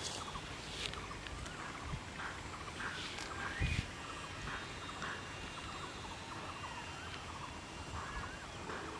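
Birds calling in many short chirps and small rising and falling notes, on and off throughout, with one dull thump about three and a half seconds in.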